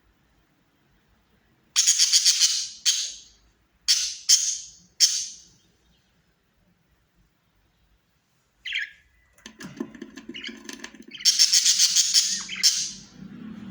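Budgerigars giving harsh, scratchy chattering calls in loud bursts: several short bursts in the first few seconds, a quiet gap, then a longer run of chatter near the end.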